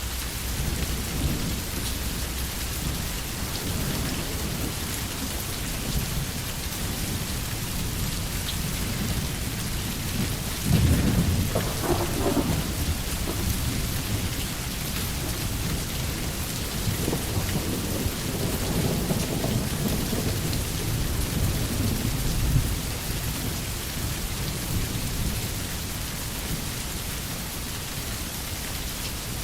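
Steady rain falling on a tin roof with thunder rumbling low. A louder peal of thunder comes about eleven seconds in and rolls on for over ten seconds before dying away.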